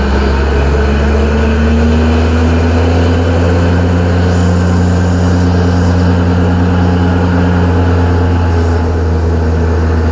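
Parking-lot tram running, heard from on board: a loud, steady low engine drone with a humming tone that rises slightly in pitch about a second in, as the tram picks up speed.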